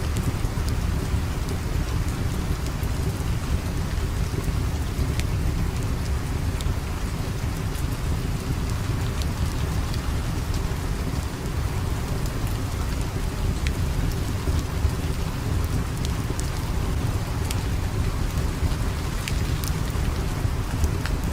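Steady rain with a deep, continuous low rumble underneath, and scattered sharp ticks throughout.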